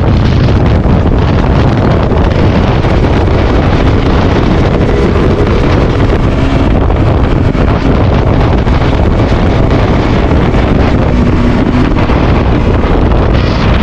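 Wind buffeting the microphone of a motorcycle-mounted action camera while riding at speed, with the KTM RC 200's single-cylinder engine running steadily underneath.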